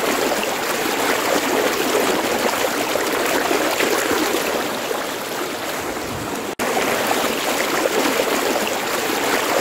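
Hill stream water rushing and splashing over rocks in a steady flow, which drops out for an instant a little past halfway and then carries on.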